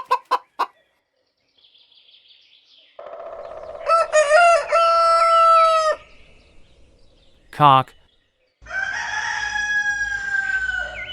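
Domestic fowl. A hen gives a few short clucks at the start, then a rooster crows loudly about four seconds in. Near the end a second long rooster call begins, falling slowly in pitch.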